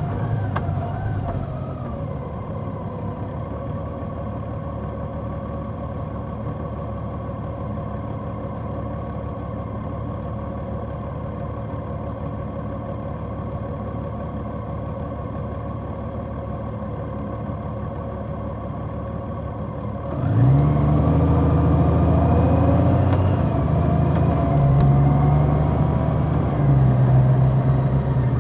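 Large motorcycle engine slowing to a steady idle. About 20 s in, it revs up louder and pulls away, its pitch climbing and stepping through the gears.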